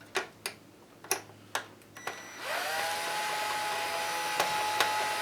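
A few sharp clicks, then about two and a half seconds in a small electric screwdriver's motor spins up with a rising whine and runs steadily. It is driving at a stripped screw that will not come out.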